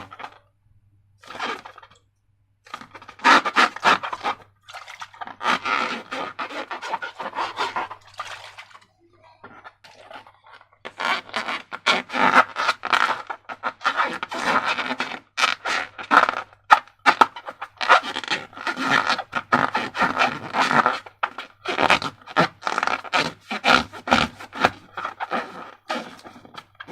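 Slime being worked by hand: runs of dense, sticky crackles and scrapes in irregular bursts, with short pauses between them.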